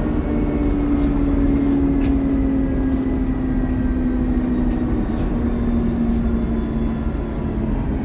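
Dennis Trident double-decker bus running, with a low rumble under a clear engine note that falls slowly and steadily over about eight seconds.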